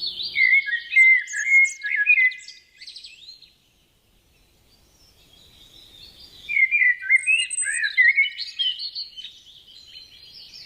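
A songbird singing: a long, rapid, warbling run of varied chirps and trills. It breaks off for about two seconds midway, then starts again and carries on.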